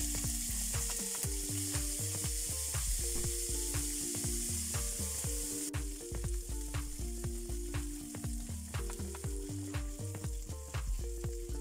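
Dried anchovies sizzling in hot oil in a stainless-steel wok, with a spatula scraping and clicking against the pan as they are stirred; the sizzle grows quieter about six seconds in. A background music track with a steady melody and bass plays underneath.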